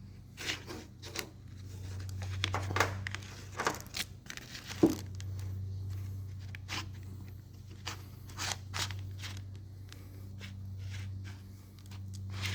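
Scattered metal clicks and small knocks from hand tools working on a mini bike's roller chain, pressing the pin out of a link, over a steady low hum.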